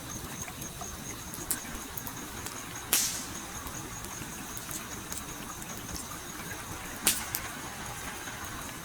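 Campfire crackling with sharp pops, the loudest about three seconds in and again about seven seconds in, over the steady rush of a flowing stream. A faint, high, pulsing tone runs underneath.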